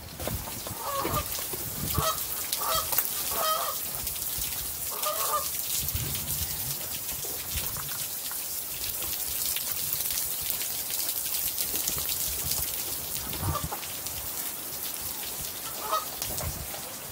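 Honking bird calls, goose-like and short, several in the first few seconds and two more near the end, over a steady hiss.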